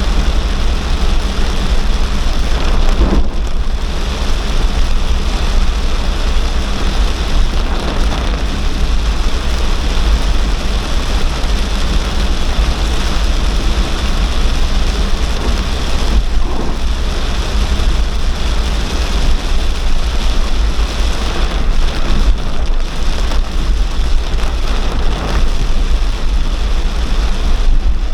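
Heavy downpour: rain pouring hard in a loud, steady hiss, with a constant deep rumble underneath.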